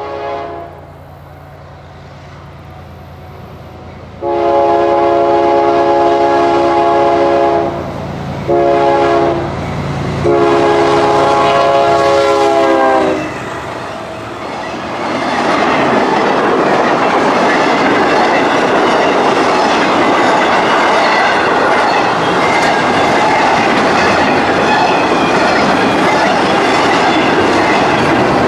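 Freight locomotive chord horn sounding the grade-crossing signal: a first long blast ending right at the start, then a long, a short and a final long blast. About two seconds after the horn stops, the train passes close by, its wheels clattering on the rail joints in a loud, steady rush.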